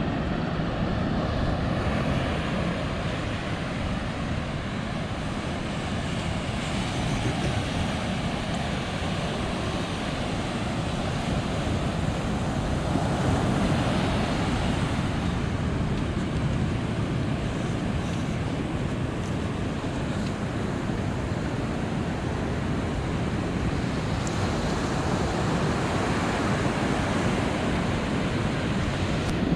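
Ocean surf breaking and washing up a beach, a steady rush that swells about halfway through, with wind buffeting the microphone.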